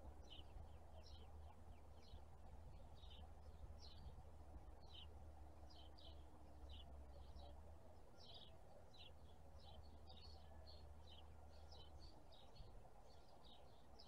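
Birds chirping faintly: short, high, falling chirps, about two a second, over a low steady rumble that fades near the end.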